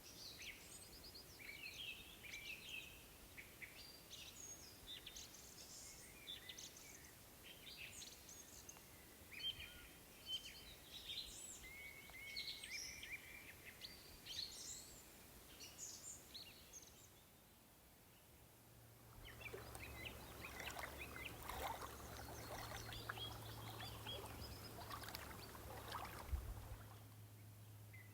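Small songbirds chirping and trilling, with many short, quick calls. About two-thirds of the way in, the birdsong gives way to a low steady hum with scattered light rustling and clicking, and a single soft thump near the end.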